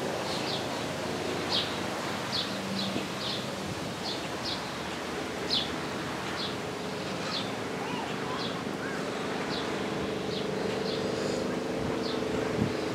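A bird repeats short, high, down-slurred chip notes about once or twice a second, over a low steady engine drone that grows stronger in the second half.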